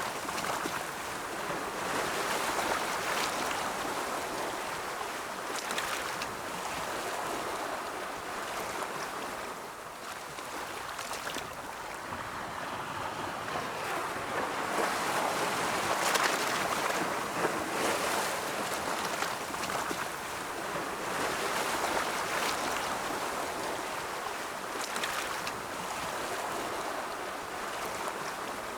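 Ocean surf: waves rolling in and washing out, a steady rushing that swells and eases every few seconds, with a hissing wash at each peak, loudest around a quarter of the way in and just past the middle.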